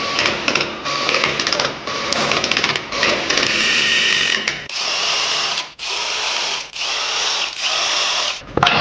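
A power tool run in repeated bursts of about a second each, stopping briefly between them. It is rattly at first, then a smoother hissing run.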